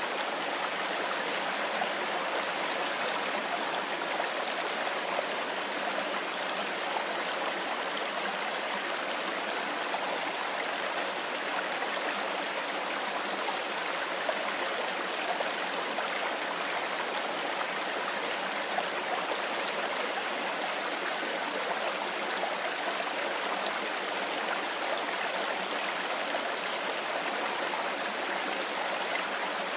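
Mountain river flowing over stones: a steady, even rush of water.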